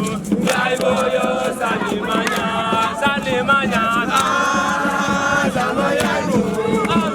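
A group of voices chanting a campfire song together in unison, without a break.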